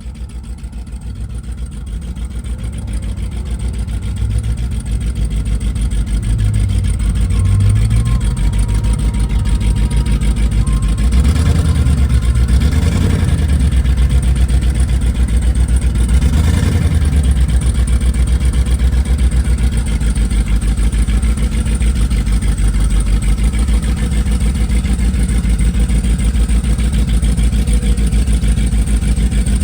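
A car engine idling with a fast, choppy pulse, getting louder over the first several seconds, revved briefly a few times near the middle.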